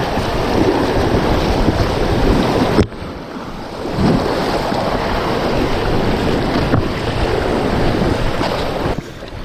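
Rushing whitewater of a low class II rapid around an inflatable kayak, with wind buffeting the microphone. The noise drops off sharply for about a second just before the three-second mark, then comes back.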